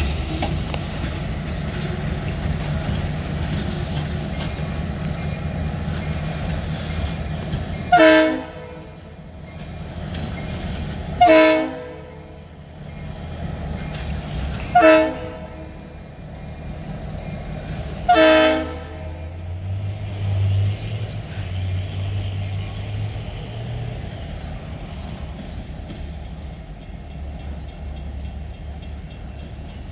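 Diesel locomotive running with a steady low rumble, sounding its multi-tone air horn in four short blasts about three and a half seconds apart, the third the shortest. A few seconds after the last blast the engine note swells briefly.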